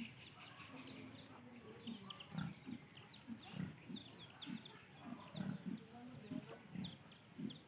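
Piglets grunting in short, repeated low grunts, about one or two a second, with many quick high bird chirps running underneath.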